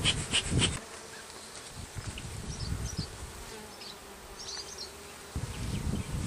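Honeybees buzzing steadily over an opened hive during an inspection. There are a few sharp clicks in the first second and some low bumping near the end.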